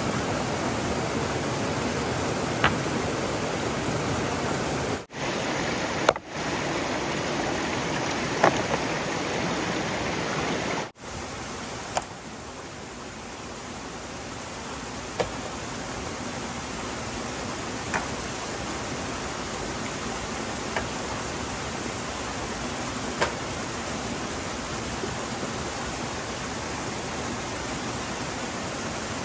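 Water rushing steadily, with a sharp tick every few seconds. The sound drops out briefly three times in the first eleven seconds and is a little quieter after that.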